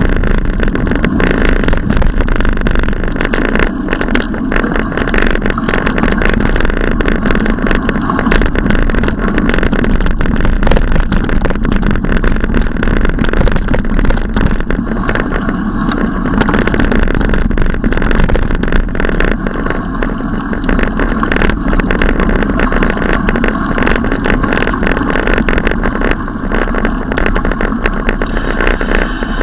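Steady, loud wind and road noise on a camera carried on a moving bicycle, with frequent rattling clicks throughout.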